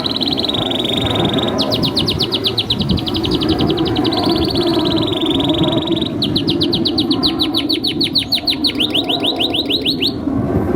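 Domestic canary singing: a held high whistle, then two long runs of rapid, evenly repeated downward-sweeping notes, the rolling trills of a canary in full song, stopping a little before the end. A steady low background noise runs underneath.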